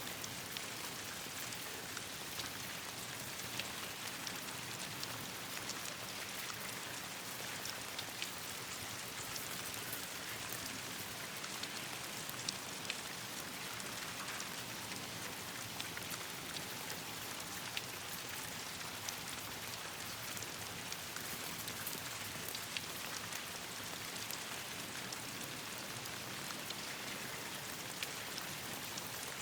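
Steady rain falling, with scattered sharp ticks of drops throughout.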